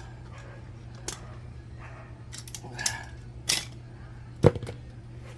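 Scattered clicks and knocks of hand tools being handled over a steady low hum, the sharpest knock about four and a half seconds in.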